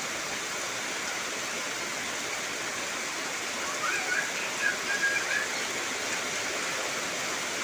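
Heavy rain falling steadily in an even hiss. About four seconds in, a few short, high chirps sound briefly over the rain.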